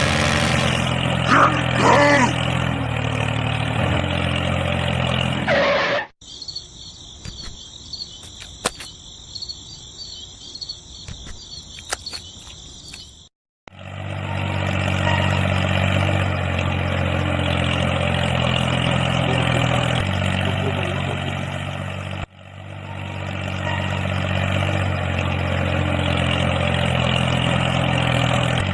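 Tractor engine running steadily. It cuts off sharply about six seconds in, leaving a quieter stretch of crickets chirping with a steady high buzz. The engine comes back a few seconds later and runs on, with a brief break partway through.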